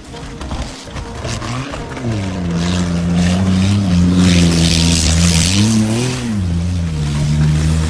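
Motor vehicle engine running loudly at a steady pitch, revving up briefly about two seconds in and again about six seconds in, with a rushing hiss through the middle.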